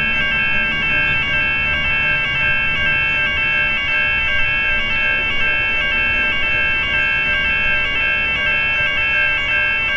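Railway level crossing warning bell ringing: an electronic bell of several high tones pulsing evenly, about twice a second, over a low background rumble.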